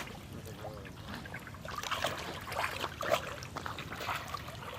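Water trickling and splashing in small, irregular bursts.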